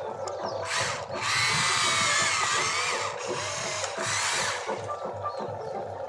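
Small electric motor and gearing of a radio-controlled construction toy whirring in three bursts, the longest about two seconds, its whine sliding up and down in pitch. Background music plays underneath.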